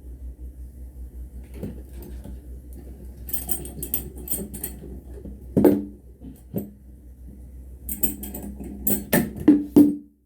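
Irregular knocks and clatter of hard objects being handled, with a sharp knock a little past the middle and a quick run of sharp knocks near the end, over a steady low hum. No saw is running.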